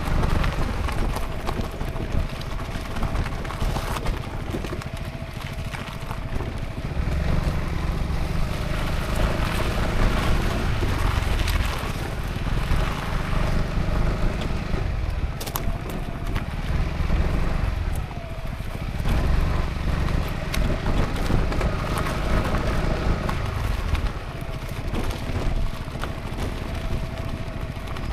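Honda ADV350 maxi scooter's single-cylinder engine running under way, with wind rumbling on the microphone in swells that come and go every few seconds.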